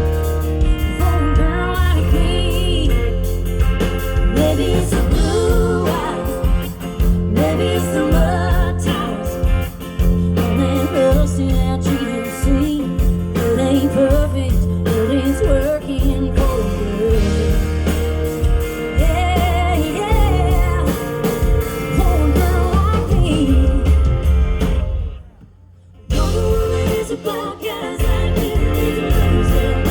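Live band playing a country-pop song with a woman singing over guitar, bass and drums. The music drops out briefly near the end before carrying on.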